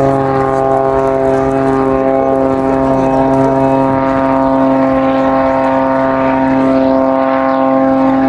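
Pitts Special aerobatic biplane's piston engine and propeller running at a steady pitch.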